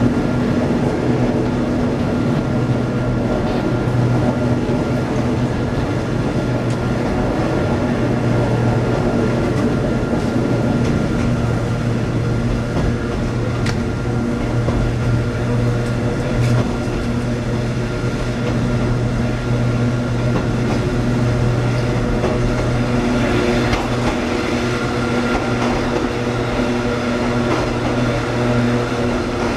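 Hakone Tozan Railway electric railcar Moha 114 running, heard inside the cab: a steady electrical hum with a thin high whine over the rumble of wheels on the track, with a few light knocks.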